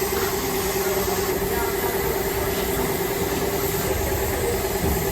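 A motor running steadily, with a constant hum over a noisy hiss.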